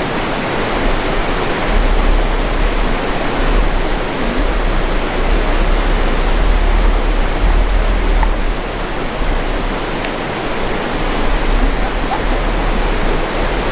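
Rushing water of a mountain stream, a loud steady rush with a deep rumble underneath.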